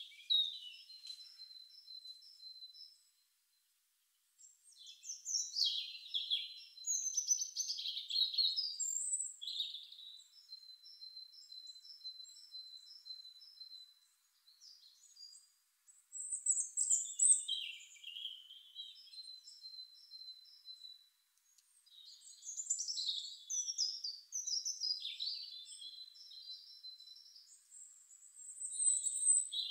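Songbirds singing: varied chirping and warbling phrases with fast trills of repeated high notes, broken by a few short pauses.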